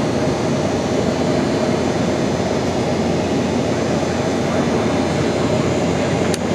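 Aeroplane taking off: a steady, loud engine and airflow noise, with a brief click near the end.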